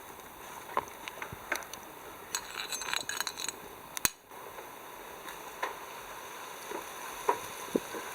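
Scattered light clinks and knocks of small hard objects, with a quick run of clinking about two to three seconds in and one sharp click about four seconds in.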